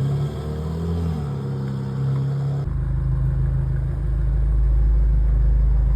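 BMW M5 (F90) twin-turbo V8 running. Its note rises and falls briefly at first, then about two and a half seconds in it settles into a deeper, louder steady drone.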